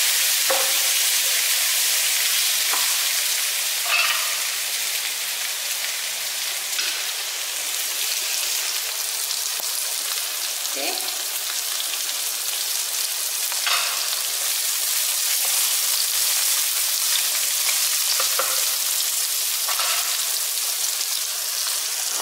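Sliced red onion, garlic and ginger sizzling steadily in hot oil in a non-stick wok, with a spatula scraping and tapping the pan now and then as it stirs them.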